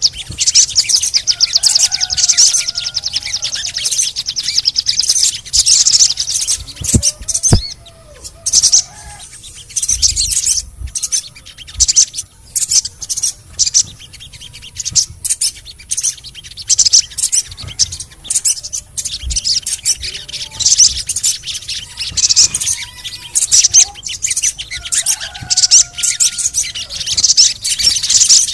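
Sogon (little spiderhunter) calling: rapid, high-pitched chattering "cret-cret" runs in bursts with short pauses, with a few softer whistled notes in between.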